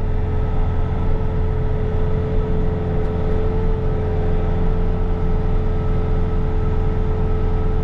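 Bobcat T66 track loader's diesel engine running steadily at high revs while driving its snow blower attachment, with a steady whine over the low rumble.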